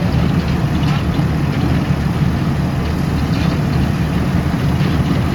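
Heavy diesel engine running steadily, a low even drone with no change in pitch.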